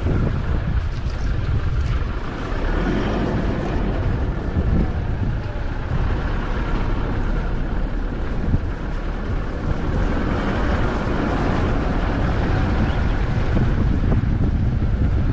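Strong wind gusting through trees and buffeting the microphone: a steady low rumble with a rushing hiss over it.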